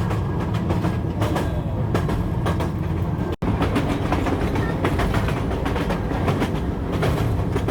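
Train rolling along the track: a steady low rumble with repeated clicking and clacking of the wheels on the rails. The sound drops out for an instant about three and a half seconds in.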